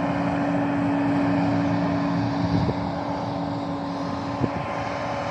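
Farm machinery engine running with a steady drone. A pitched hum within it fades out about two seconds in, and two faint clicks follow later.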